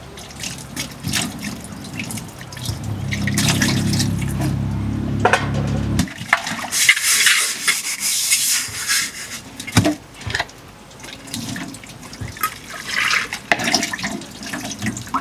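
Water pouring and splashing. A low hum runs through the first six seconds and stops abruptly, followed by louder splashing and a few clicks.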